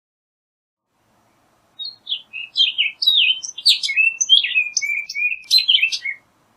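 Orchard oriole singing: a single rapid song of varied whistled and slurred notes, jumping up and down in pitch, starting about two seconds in and ending shortly before the end.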